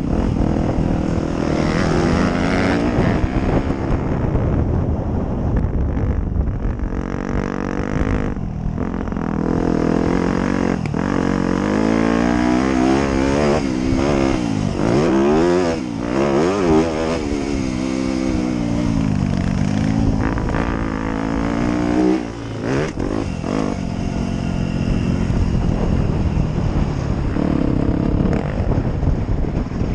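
Dirt bike engine being ridden, revving up and down: its pitch rises and falls again and again as the throttle opens and closes, with a brief drop about two-thirds of the way through.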